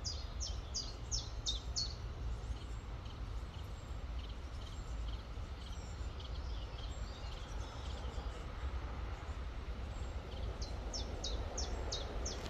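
Songbird repeating a quick run of high, downward-slurred notes, about three a second, for the first two seconds and again from about ten seconds in, with fainter chirps between. Under it runs the steady rush of a river.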